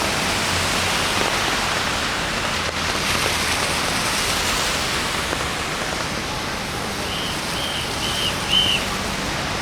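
Steady rain hiss. About seven seconds in, four short high beeps sound in a quick even row.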